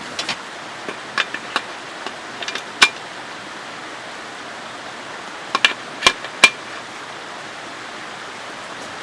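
Scattered sharp clicks and knocks, some with a brief ringing, the loudest in a quick cluster about six seconds in, over a steady rush of running water.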